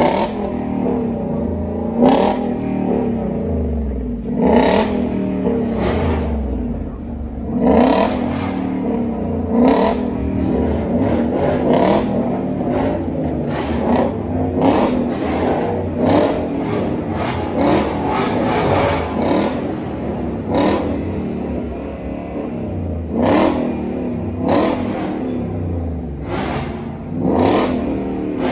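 Ford Mustang V8 engines being revved again and again, very loud. Each sharp blip of the throttle rises in pitch and drops back to a rumbling idle. The revs come every second or two, with a quicker run of them in the middle.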